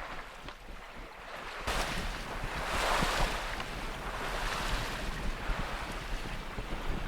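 Sea water rushing and breaking alongside a sailing boat under way in a choppy sea, with wind buffeting the microphone. A wave surges in sharply just under two seconds in and is loudest about a second later.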